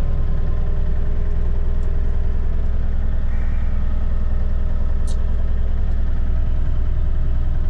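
An engine running steadily at constant speed, a low even drone with no revving, with one faint short click about five seconds in.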